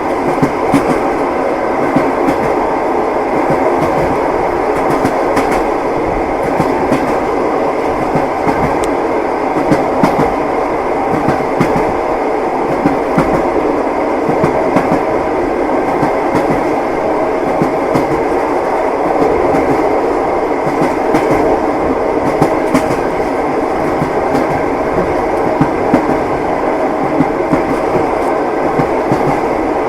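Train wheels clattering over rail joints as a passenger railway carriage runs along the track: a steady rumble broken by frequent sharp clacks.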